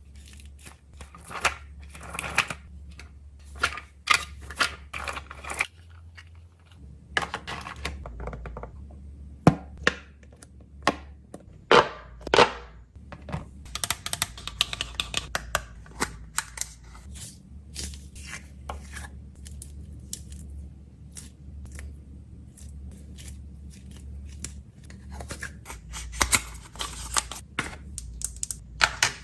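Close-up handling of packaging and small objects: an irregular run of sharp clicks and taps, with short stretches of rustling or tearing.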